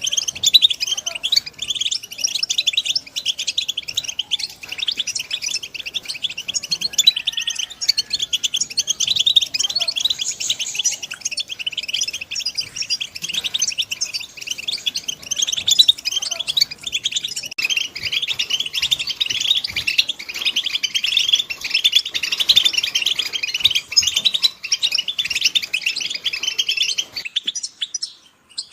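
A group of goldfinches calling together: dense, rapid, overlapping twittering chirps. The chorus stops shortly before the end.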